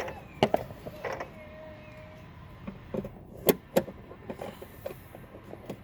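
Clicks and knocks of hand tools and mower parts as bolts are fitted back on, a louder pair of knocks about three and a half seconds in, with a short creak a little after a second in.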